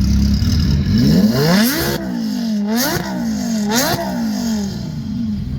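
Car engine idling, then revved up three times in quick succession, each rev falling back toward idle, before it settles to a steady idle again.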